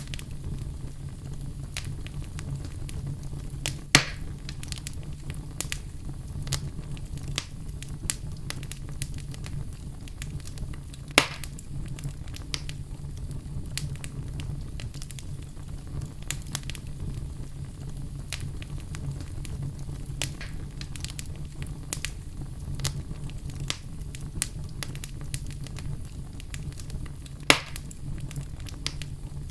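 Fire burning in a fireplace, a steady low rumble under constant small crackles. Three loud pops stand out: about 4 seconds in, about 11 seconds in, and near the end.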